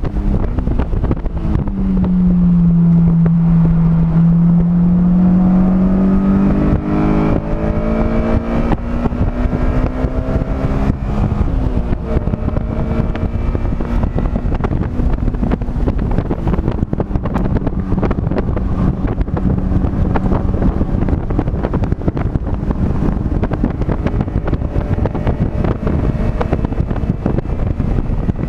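Car engine heard from onboard at speed. Its note drops about two seconds in, climbs steadily as the car accelerates, then holds level. Heavy wind buffeting and road noise on the microphone run underneath.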